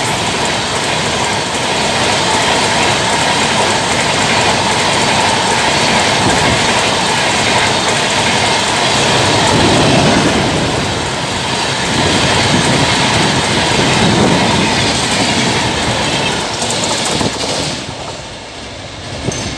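Express train coaches rushing past at speed: a steady, loud din of steel wheels on rail with clickety-clack over the rail joints. It fades near the end as the last coach goes by.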